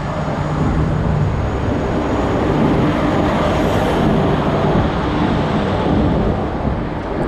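Train rolling along the tracks close by: a loud rumble and rattle that swells over the first couple of seconds, holds, and eases a little near the end.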